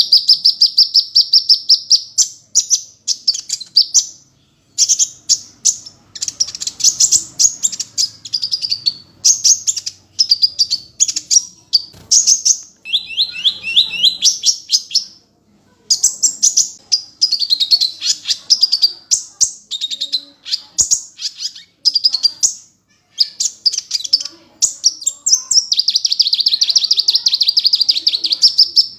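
Kolibri ninja (black sunbird) singing: fast series of high, thin chips and trills in phrases of one to two seconds, repeated with short pauses.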